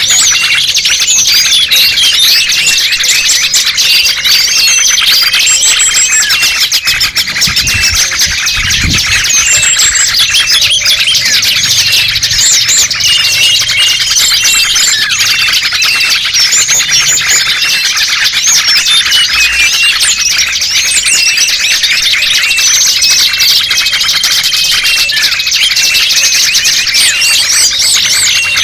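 Dense chorus of many small songbirds chirping and twittering over one another, loud and continuous, with a few short whistled notes among the chirps: a recorded lure call used to draw small birds in for trapping.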